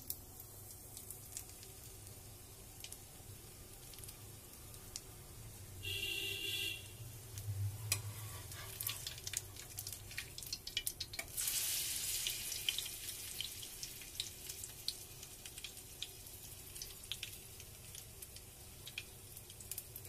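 Bread slice shallow-frying in oil in a small pan, sizzling quietly with scattered small crackles and pops. About twelve seconds in the sizzle briefly grows louder as the slice is moved in the pan with a metal spatula. A short high tone, about a second long, sounds about six seconds in.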